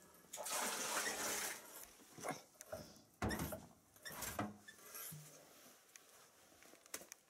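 Bottle dunked into a shallow spring well and filling: a splash of water lasting about a second and a half, then a series of short splashes and glugs.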